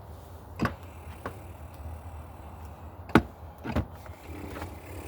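Light fixture and its metal mounting bracket being handled while fitting it: a few sharp clicks and knocks, the loudest a little past three seconds in, over a steady low rumble.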